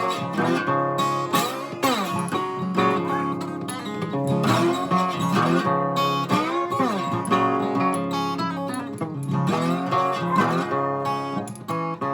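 Instrumental acoustic guitar music, plucked and strummed, with notes that slide up and down in pitch.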